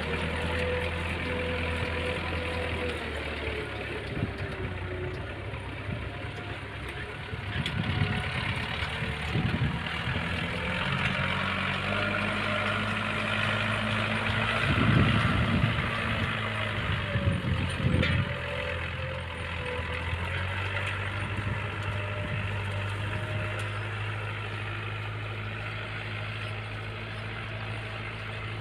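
Tractor diesel engine running steadily as it pulls a plough through the soil, its pitch shifting now and then, with a few louder surges midway.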